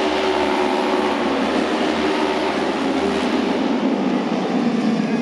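Several auto race motorcycles running flat out around the track, their engines blending into one continuous loud drone with slightly wavering pitch.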